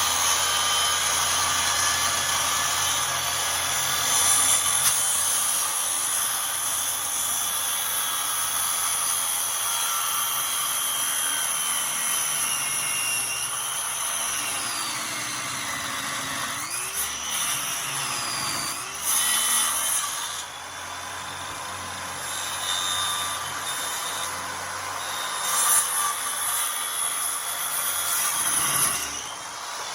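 Electric power saw cutting through wood, its motor running steadily, with the pitch sliding down and back up a few times in the second half.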